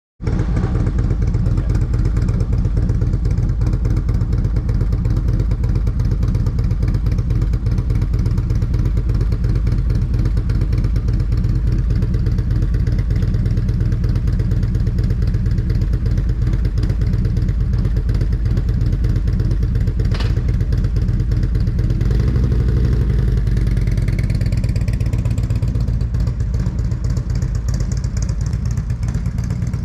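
Motorcycle engine running steadily at low speed, close to the microphone, with a sharp click about two-thirds of the way through and a rising whine near the end.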